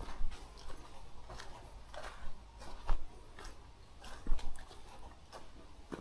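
Footsteps of a hiker walking a rough trail: irregular crunching steps and small knocks, over a low rumble.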